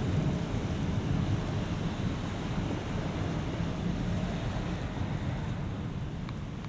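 Low rumbling noise of a thunderstorm, fading slightly toward the end.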